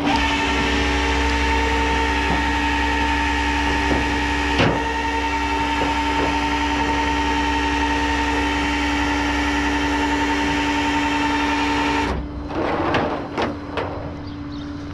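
The powered loading machinery of a car-hauling tow truck runs steadily with a constant whine over a low rumble, then cuts off suddenly about twelve seconds in.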